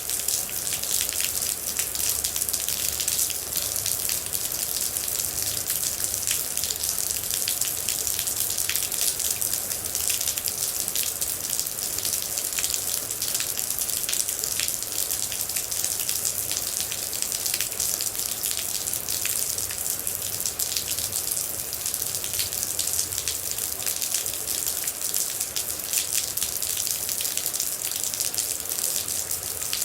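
Steady rain, an even hiss with a dense patter of individual droplets.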